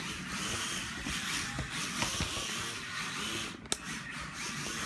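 Mini-Z 1:28-scale RC drift cars running: a steady hiss of small electric motors and tyres sliding on the track, with one sharp click a little over three and a half seconds in.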